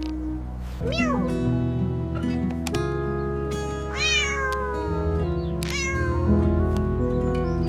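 A cat meowing three times over steady background music; the middle meow is the longest and falls in pitch.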